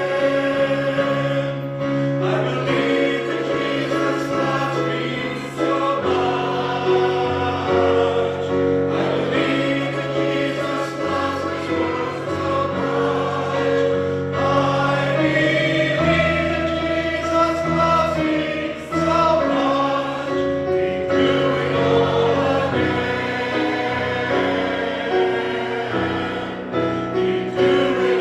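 A group of voices singing a slow hymn with instrumental accompaniment, long held notes and a bass line that moves every second or two.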